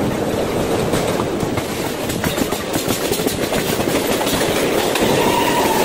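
Passenger train running along the track, heard through an open carriage window: a steady rumble of wheels on rails with some clatter.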